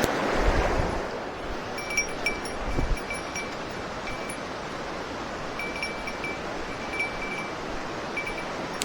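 Rushing water of a mountain stream running high after heavy rain, a steady even roar, with faint high ringing pings that come and go irregularly. A few low thumps in the first three seconds.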